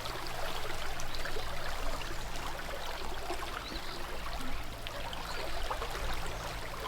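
Trout stream running: a steady rush and trickle of flowing water.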